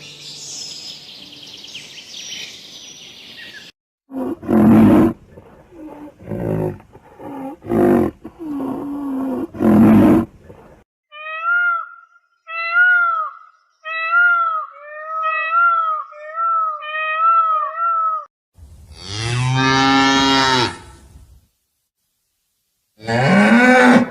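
Several different farm animals calling in turn. A run of loud, harsh calls comes first, then about eight short, evenly spaced, high-pitched calls. Then comes one long, low call lasting a few seconds, and another short call near the end.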